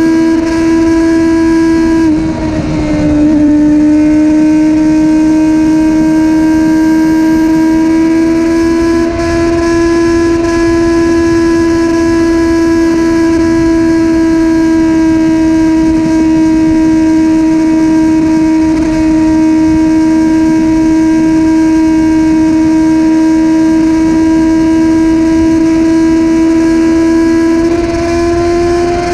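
Motorcycle running at a steady speed: a loud, steady droning tone over a rough rumble, its pitch dipping briefly about two seconds in and then holding level.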